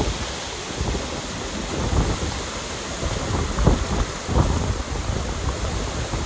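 Heavy wind-driven hurricane rain pouring steadily, with gusts of wind buffeting the microphone in irregular low rumbles that grow stronger near the end.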